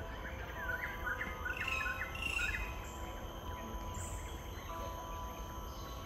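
A bird calling a rapid series of short, sharp chirps from about half a second in until nearly three seconds in, over a steady low rumble.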